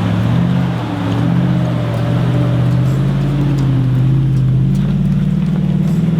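Four-wheel-drive engine working under load on a steep climb, its revs rising and falling with the throttle and climbing a little near the end.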